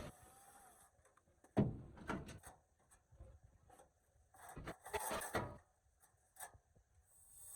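A sharp knock about one and a half seconds in, followed by intermittent scraping and rubbing, with a longer bout near five seconds in and a small click after it.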